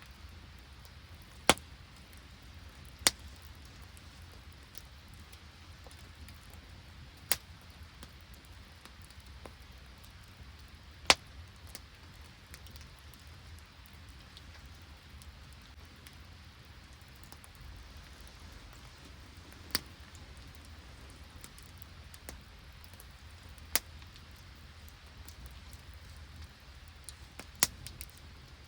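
Open wood campfire crackling, with a sharp pop every few seconds at uneven intervals over a soft steady hiss.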